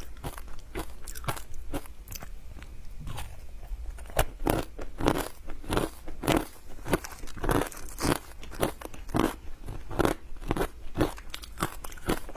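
Close-up crunching of ice being bitten and chewed, a rapid run of sharp cracks, sparser at first and getting stronger and steadier, a few a second, from a third of the way in.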